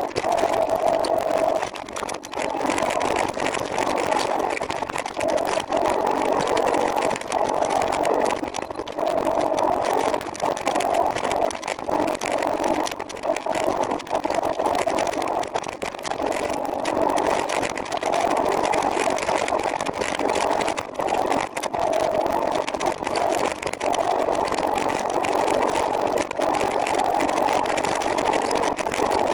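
Steady noise of a trike on the move, an even hum with brief dips every few seconds.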